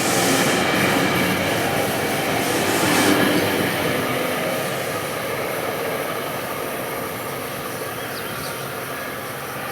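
Metrolink commuter train with an MP36 diesel locomotive moving through the station, wheels running on the rails with some squealing; the sound slowly fades in the second half.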